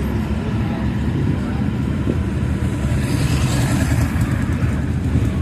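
Group of motorcycles riding together, engines running with steady low-pitched engine noise.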